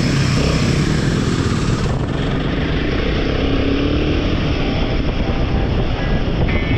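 Royal Enfield motorcycle riding along, its engine running under a steady rush of wind and road noise, the engine note rising and falling slightly.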